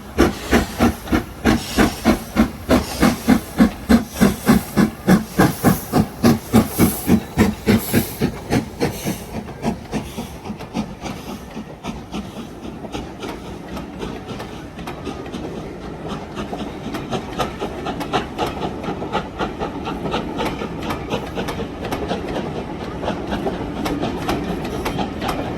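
LMS Black Five steam locomotive 45428 "Eric Treacy" pulling away with a train, its chimney exhaust chuffing in a sharp, rhythmic beat of about three a second with steam hissing. The beats fade after about ten seconds, leaving a steady rumble and clatter of wheels on rail that grows louder near the end.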